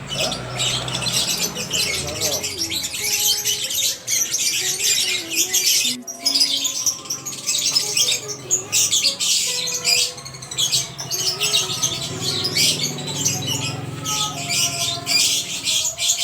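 Many caged birds chirping and squawking together in a continuous chatter.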